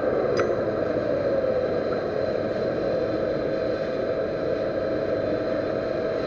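Metal lathe running steadily, a constant machine hum with a faint steady tone, and a single light click about half a second in.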